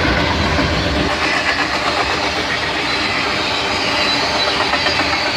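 Freight train cars, covered hoppers and tank cars, rolling past close by: steel wheels on rail make a loud, steady rolling noise. A deep rumble underneath fades out about a second in.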